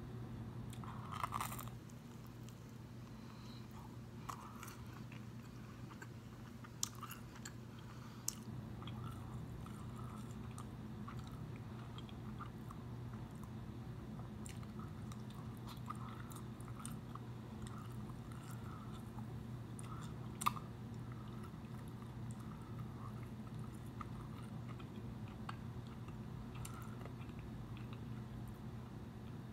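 Chewing and biting of toasted raisin bread and turkey bacon, with occasional crunches and a few sharp mouth clicks, the loudest about twenty seconds in. A steady low hum sits underneath.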